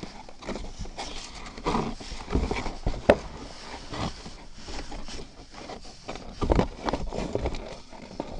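Toys being handled and moved about, with irregular taps, knocks and rustles, a few louder knocks here and there.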